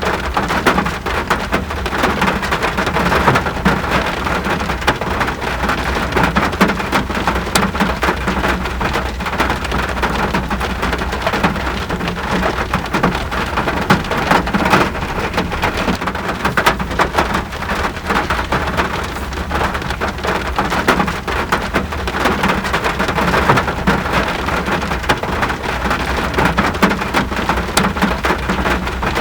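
Steady rain, with dense drop impacts close by and a low, steady rumble underneath.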